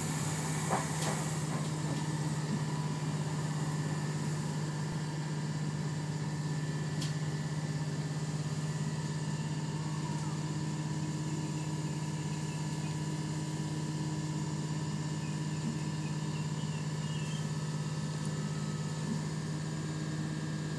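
Inside the carriage of a ScotRail electric train drawing slowly into a station: a steady low hum with fainter steady whines above it, and a couple of faint clicks.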